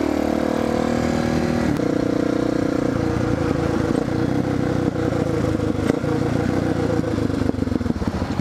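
Single-cylinder Suzuki dual-sport motorcycle engine running under way, heard from the rider's mic. The engine note steps about two seconds in, eases down, and near the end drops to an idle with separate, evenly spaced firing pulses as the bike slows.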